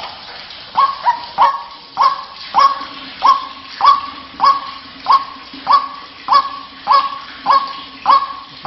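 White-breasted waterhen (ruak-ruak) calling: a rapid, even series of sharp repeated notes, about one and a half a second, starting about a second in. A faint steady hum runs beneath from a few seconds in.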